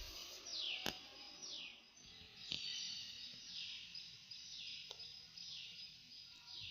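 A bird calling over and over, each call a short note falling in pitch, about once a second. A few sharp clicks come in between.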